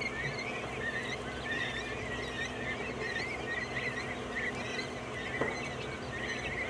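A flock of farmed quail chirping, with many short calls overlapping without a break.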